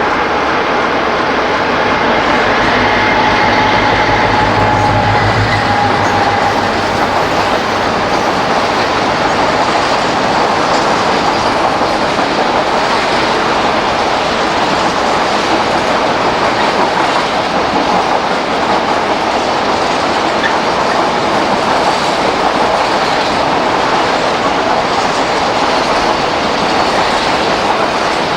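Freight train rolling past, its wagon wheels clattering over the rail joints in a long, steady rush. A low engine hum under the first few seconds stops about six seconds in.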